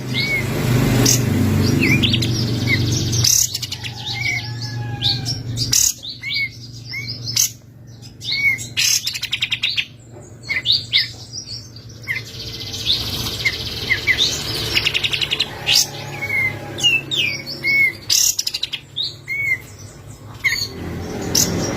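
Kapas tembak (a bulbul) singing: a stream of short whistled chirps mixed with fast rattling trills, the chattering 'ngebren' song.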